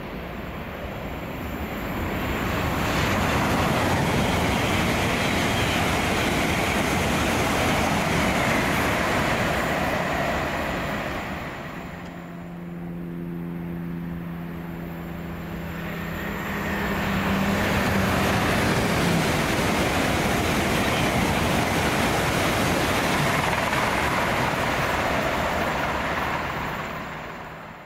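Train passing on the main line: a loud rush of wheel and rail noise builds about two seconds in. It eases around twelve seconds, where a steady hum of several low tones comes through, then swells again from about seventeen seconds before fading at the end.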